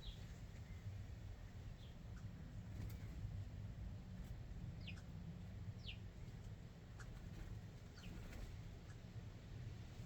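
Wild birds chirping faintly and sporadically, including two short downward-sliding calls about five and six seconds in, over a steady low rumble.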